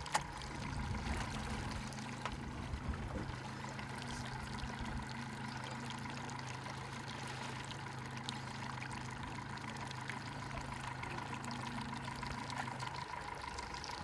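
River water running and splashing, with a steady low hum underneath that stops near the end.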